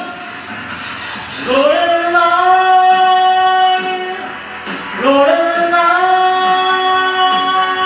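A solo singer with backing music holds two long, high sung notes. Each note swoops up into pitch, the first about a second and a half in and the second about five seconds in.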